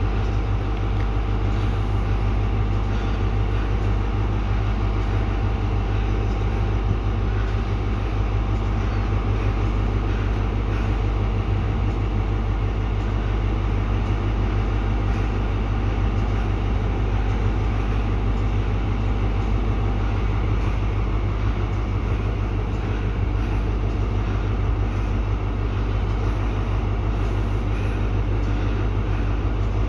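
A train running with a steady low rumble that holds at the same level throughout, with a faint steady tone over it.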